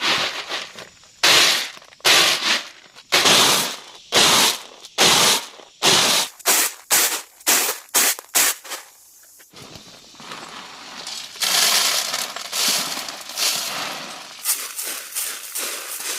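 Crunching and rustling of dry material in a quick series of strokes, about two a second, then after a short pause a denser, steadier crackling.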